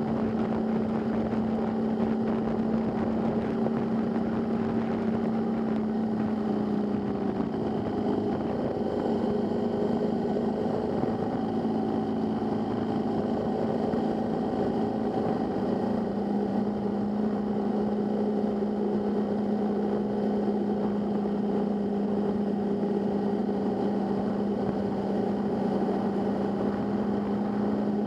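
Motorcycle engine running at a steady cruise, with wind rush. The engine note drops slightly about a quarter of the way in and rises a little again past the halfway point.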